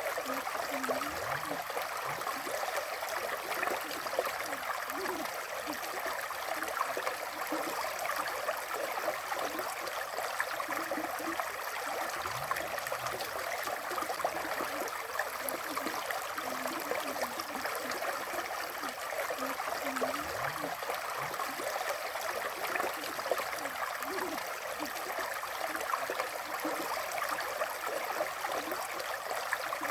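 River water flowing in a steady rush, with small gurgles throughout.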